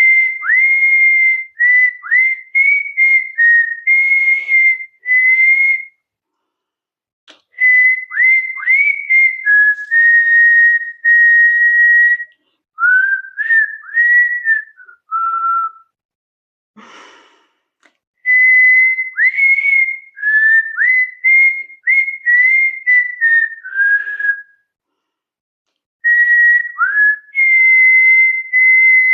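A person whistling a tune through pursed lips: a single clear tone with many notes scooped up into from below, in phrases broken by pauses of a second or two. The whistler is untrained. A brief breathy noise falls in the longest pause, a little past the middle.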